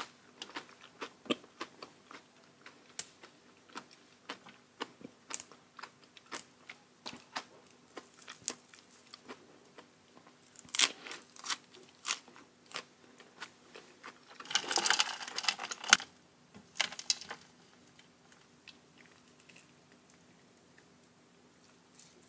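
Close-miked chewing and crunching of food, with short wet mouth clicks coming every fraction of a second. About fifteen seconds in there is a louder crunching stretch lasting a second or two, and the eating sounds fade to faint for the last few seconds.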